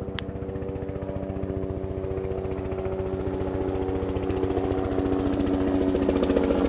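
Aircraft engine with a fast, even pulse, growing steadily louder as it approaches.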